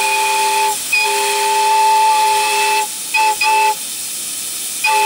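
A live-steam locomotive's chime whistle blowing several tones at once: a long blast with a brief break under a second in, two quick toots just after three seconds, and a new blast starting near the end, over a steady hiss of escaping steam.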